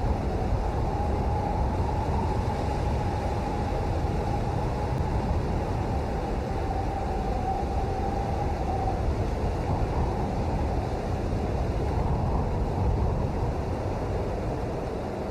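Steady rain, an even rushing hiss with a deep rumble underneath.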